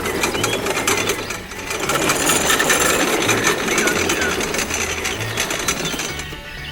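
Dense, rapid clattering, strongest in the middle, over background music with a steady bass line.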